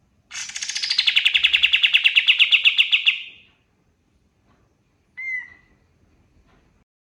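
Kapas tembak bulbul singing: a fast trill of about ten notes a second lasting about three seconds, falling in pitch at the start and then holding steady. A single short call follows about two seconds later.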